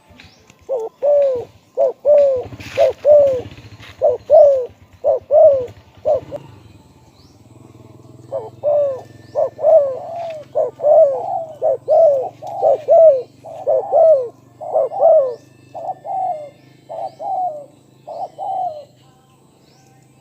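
Spotted dove cooing: quick runs of short coo notes, each dipping in pitch, in two bouts with a pause of about two seconds between them, over a faint low hum.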